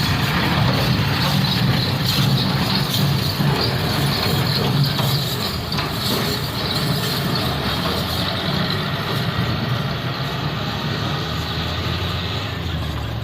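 Truck engine running steadily: a low drone with a broad rushing noise above it.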